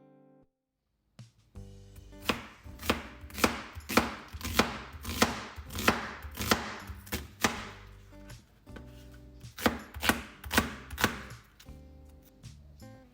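A run of sharp, evenly spaced knocks, about two a second, like a knife chopping on a board, pausing briefly in the middle, over soft background music.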